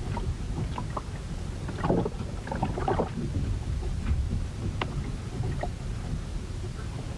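Wooden ship in a storm: a steady low rumble of wind and water around the hull. A cluster of short knocks and rattles comes about two to three seconds in, and a few sharper ticks follow near five seconds.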